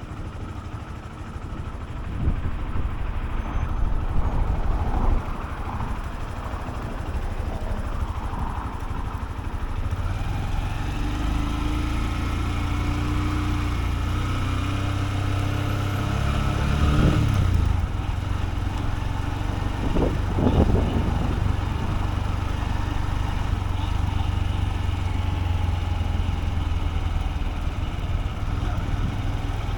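Honda CB125F's single-cylinder engine running under way, with wind buffeting the microphone for roughly the first third. After that the engine note holds steady, with a brief rise and fall in pitch about halfway through.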